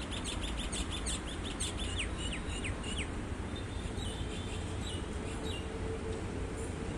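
Small birds chirping in quick runs of short descending notes, thinning out after about three seconds, over a steady low background rumble.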